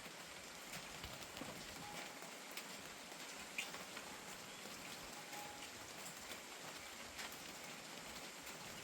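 Steady rain falling, a soft even hiss with scattered individual drops ticking sharply on nearby surfaces.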